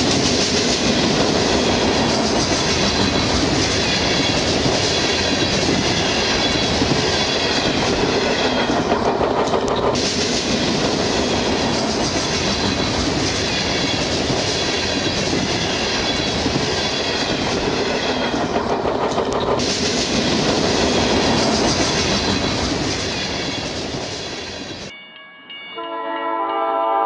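Diesel train sounds: a running locomotive and a horn, with wheels clicking over rail joints. About 25 seconds in the train sound cuts off and music starts.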